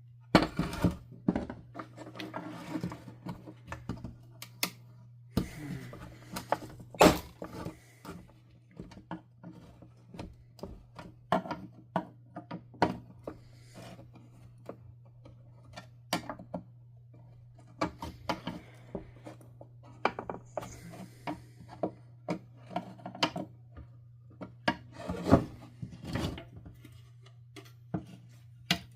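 Plastic parts of a vacuum cleaner's power nozzle being handled and taken apart on a workbench: irregular clicks, knocks and scraping, with a steady low hum underneath.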